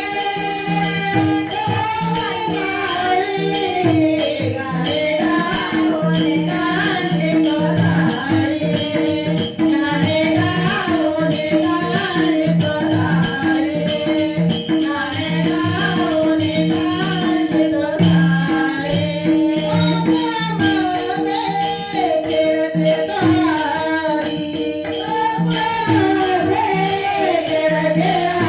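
Marathi bhajan: a gavlan devotional song sung by a solo voice with gliding ornaments over a steady held drone, with jingling hand percussion ticking out an even rhythm.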